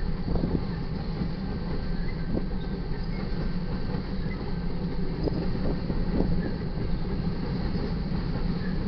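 Loaded covered hopper cars of a freight grain train rolling past: a steady rumble of steel wheels on rail, with a few sharp knocks as wheels pass over rail joints.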